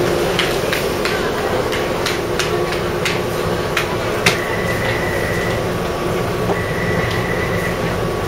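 Taipei Metro C301 train running, heard from inside the car: a steady running noise with a low hum and a string of sharp clicks and knocks from the wheels and car. About halfway through a louder knock comes, then a steady high whine sounds twice, each about a second long.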